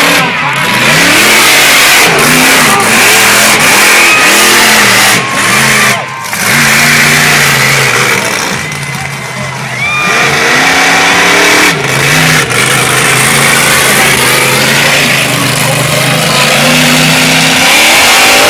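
Monster truck engine revving hard over and over, its pitch climbing and falling as the throttle is worked. The engine note drops away briefly about six seconds in and again for about a second near nine seconds in.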